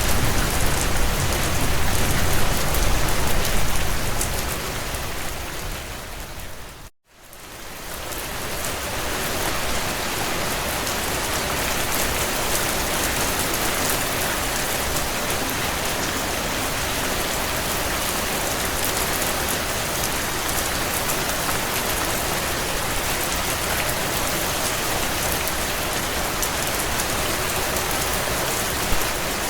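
Steady heavy rain on a window, a continuous even hiss. About five seconds in it fades down to a moment of silence near seven seconds and then fades back up, the seam of a looped ambience track.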